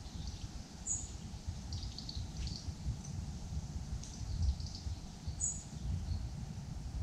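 Small birds giving short, high chirps every second or so, a brighter double note about a second in and again past the middle, over a constant low rumble.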